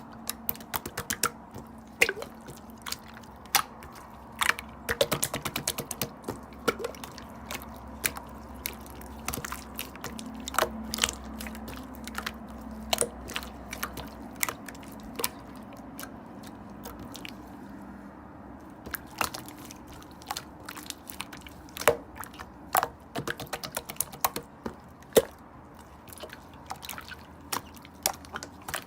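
Slime being played with by hand, making irregular sharp clicks and pops, sometimes in quick runs of several a second.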